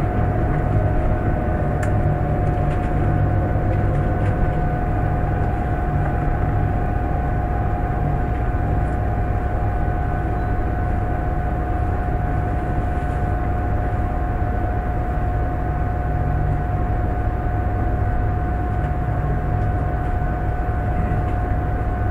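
Running noise heard inside an E1 series MAX double-decker Shinkansen as it pulls into an underground station: a steady low rumble under a constant high whine.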